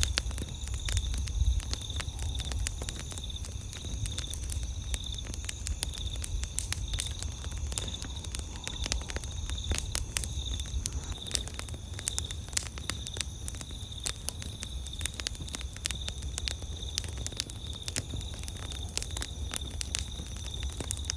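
Campfire crackling, with irregular sharp pops and snaps over a low rumble of the burning fire. A steady high-pitched insect trill runs underneath.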